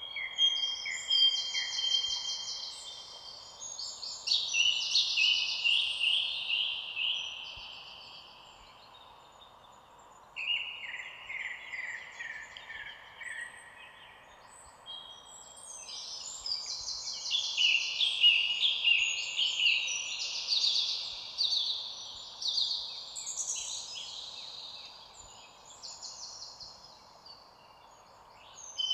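Songbirds singing in bouts of rapid, overlapping trilled and chattering phrases, with short lulls between bouts, over a faint steady hiss.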